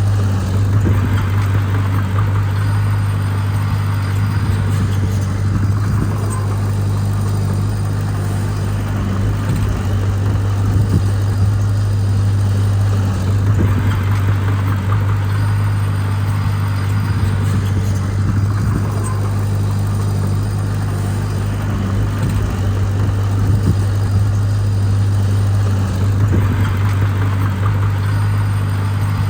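Heavy diesel engine of earthmoving equipment running steadily with a deep, even hum. A broad swell of noise comes back every six seconds or so.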